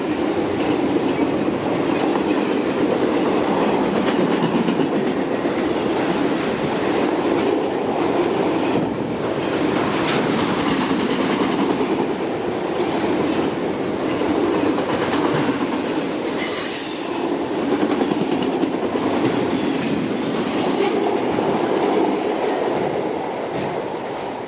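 CN freight train's cars rolling past at track speed: a steady rumble of steel wheels on rail with clacking over the rail joints. A brief high wheel squeal sounds about two-thirds of the way through.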